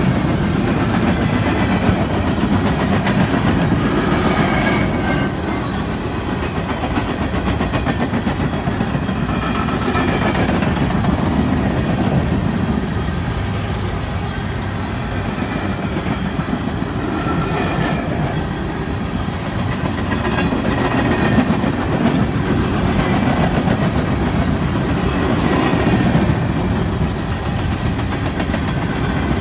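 Freight train of coal hopper cars rolling past close by: a steady rumble of steel wheels clacking over the rail joints, with faint high squeals coming and going.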